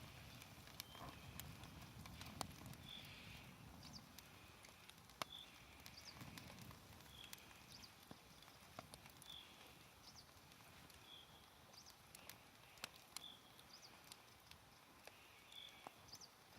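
Small campfire crackling faintly, with sparse sharp pops. A short high chirp repeats about every two seconds.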